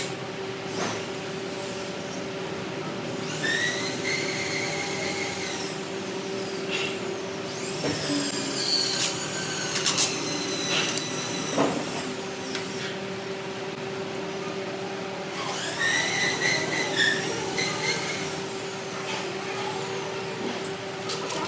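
Workshop machinery running: a steady hum, three separate whines that each rise and fall in pitch, and a few sharp clicks.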